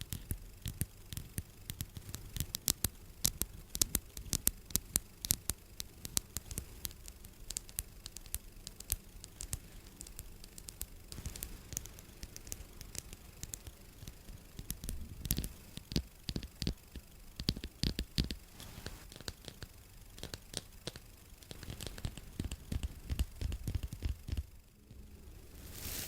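Close-miked ASMR handling sounds: a dense run of sharp clicks and scratchy ticks, busiest in the first several seconds and thinning out later, over a low rumble.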